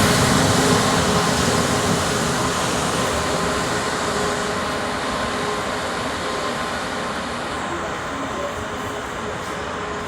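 Train running through the station without stopping. Its steady rolling rush along the rails fades gradually as it moves away.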